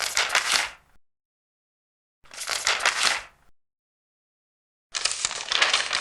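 Large paper pages being turned one at a time: three dry, crackly rustles, each about a second long and about two and a half seconds apart, with silence between them.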